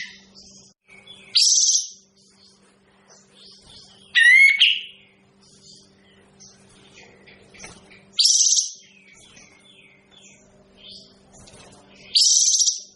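Kapas tembak songbird calling: four loud, short calls spaced about four seconds apart, with fainter chirps in between, over a faint steady electrical hum.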